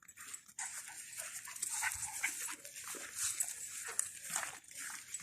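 A dog panting faintly in short, irregular breaths, with the odd small whimper.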